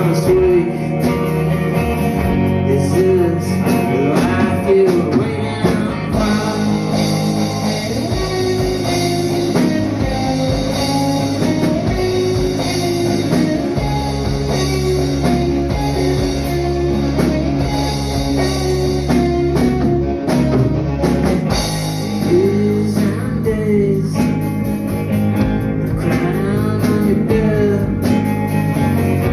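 A band playing a song: a voice singing over guitar, with low sustained bass notes.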